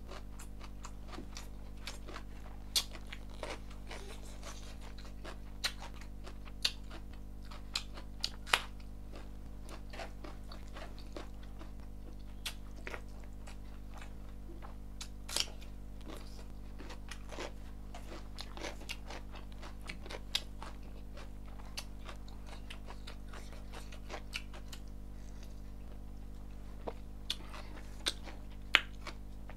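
Close-miked eating sounds of a person chewing a mouthful of rice, with sharp smacks and clicks at irregular intervals, a few of them much louder than the rest, over a steady low hum.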